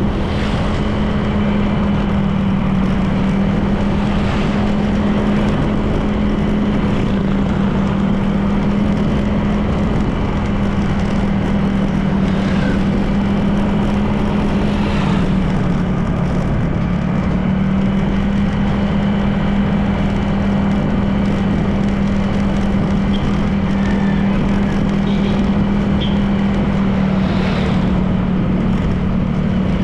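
Honda PCX 160 scooter's single-cylinder engine running steadily at cruising speed, with wind and road noise. The engine pitch dips briefly about halfway through, then settles back to the same steady tone.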